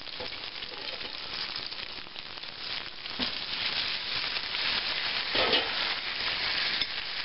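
Onions, whole garlic cloves and halved Brussels sprouts sizzling in olive oil in a thick-bottomed frying pan, with fine crackling. The sizzle grows a little louder about four seconds in.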